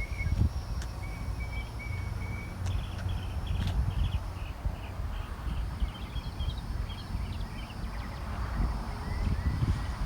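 Outdoor ambience: a low rumble of wind on the microphone, with a bird chirping a series of short, evenly repeated high notes through the middle.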